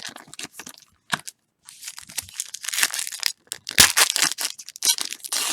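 Foil wrapper of a football trading card pack being torn open and crinkled, with cards being handled, in a run of irregular crackles and rustles.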